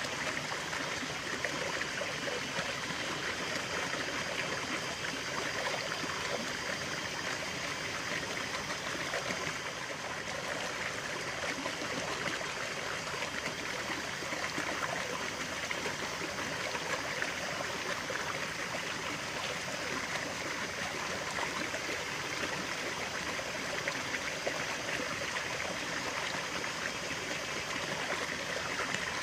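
Stream of running water flowing and trickling steadily, an even hiss of water.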